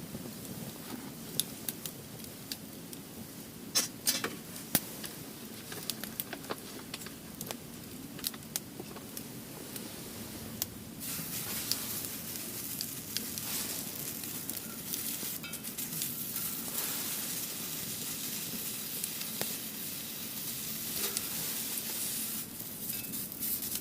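Firewood burning in a fire grill stand, crackling with sharp pops. About halfway through, a steady hiss of flames grows louder, with more pops over it.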